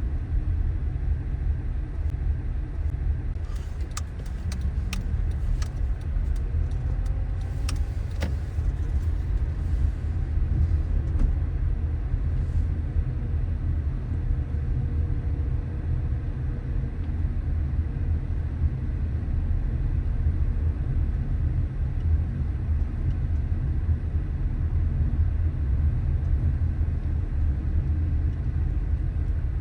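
A car driving: a steady low rumble of engine and road noise, with a few light clicks between about three and eight seconds in.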